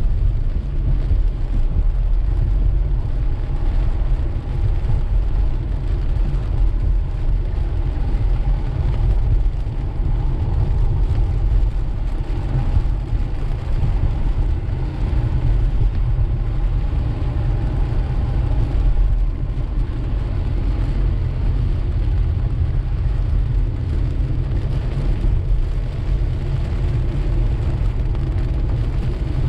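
Car driving through steady rain on a wet road: a steady low rumble of road and engine with an even hiss of tyres and rain.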